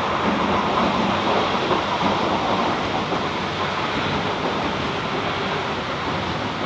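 An MTR East Rail Line electric train running at the platform: a loud, steady rumble and rush that slowly eases off.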